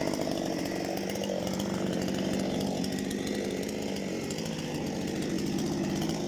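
Parma BP-058 two-stroke petrol chainsaw running steadily, its engine note sagging slightly in pitch in the first second or two.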